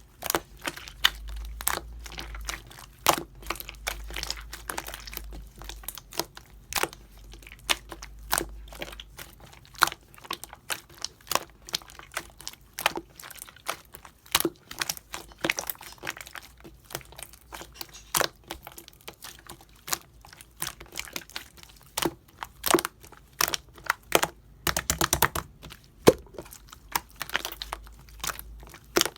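Hands squishing and poking marbled slime, making irregular sharp clicks and pops, with a denser run of crackling about 25 seconds in.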